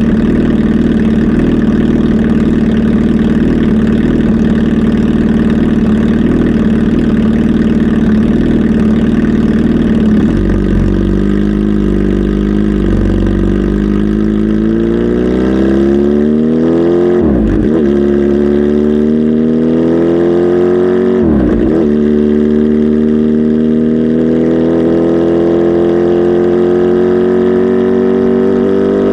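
Kawasaki Z H2 SE's supercharged inline-four engine running steadily, then from about a third in its pitch climbs, drops sharply twice as it shifts up, and keeps rising.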